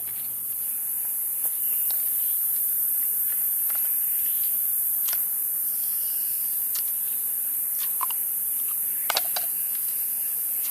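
Steady hiss of rain, with scattered light taps and clicks; a small cluster of taps comes about nine seconds in.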